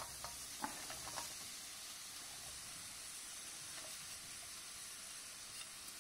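Sliced button mushrooms going into a pan of garlic frying in hot oil, with faint, steady sizzling and a few light clicks in the first second or so as they are scraped off the plate.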